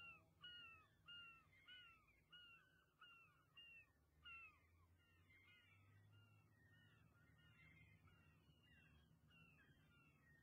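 Faint bird calls, short and each falling in pitch, repeating about three times a second and fading away over the first four seconds or so, then near silence.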